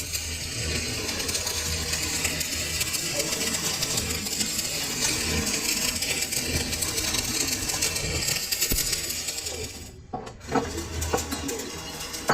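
Steady metalworking noise, a dense crackling hiss over a low electrical hum, that stops about ten seconds in. A few sharp metal clinks follow.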